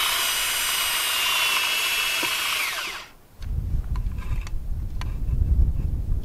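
Power drill running steadily at speed with a high whine, pre-drilling a hole in old wood, then winding down about three seconds in. After it, a low, uneven rumble.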